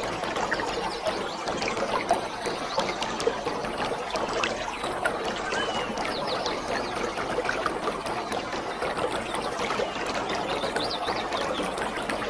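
Waterfall: falling water splashing and rushing steadily, an even wash of noise with constant fine splashing detail.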